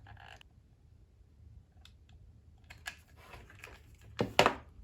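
Scattered light clicks and handling noises of small plastic parts being worked by hand at a hot glue gun, with a louder, brief scraping rustle about four seconds in.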